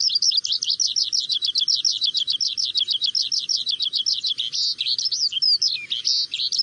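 Himalayan prinia singing: a fast, even run of sharp chirps, about eight a second, that breaks into more varied notes in the last two seconds.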